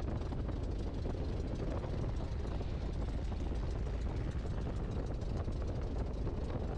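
Great Lakes open-cockpit biplane's piston engine idling steadily, a low even rumble, with its idle mixture freshly adjusted to cure the engine quitting at idle.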